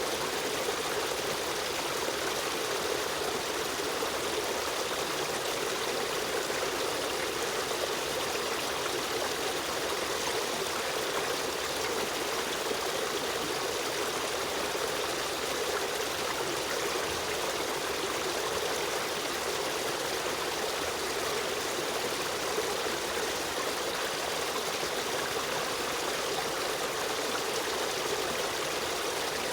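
Stream water running over rocks in a steady, even rush with a light trickle.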